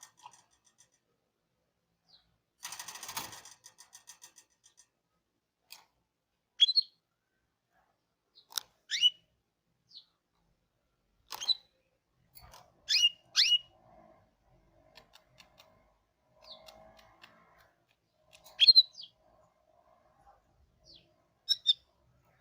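Canary of the Hipi type calling in single sharp chirps, each a quick sweep in pitch, coming every second or two with gaps between. There is a brief rattling burst about three seconds in.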